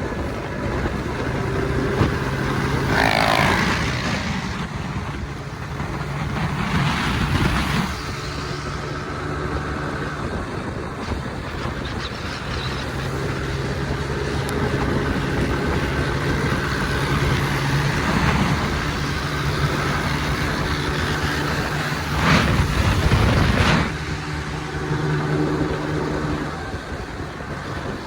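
Motor vehicle engine running, its pitch and loudness rising and falling, with louder surges a few seconds in and again about three quarters of the way through.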